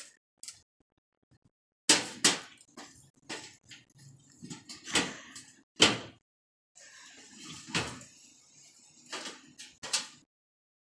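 A series of irregular knocks and bangs, about a dozen over several seconds, some sharp and loud, with short pauses between them.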